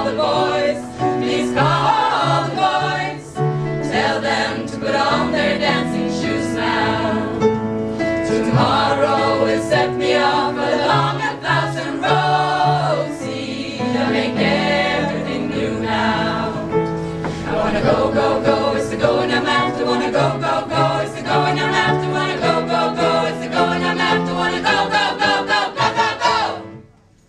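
Choir singing a song's final section, many voices over a repeating low line, cutting off sharply at the end of the song.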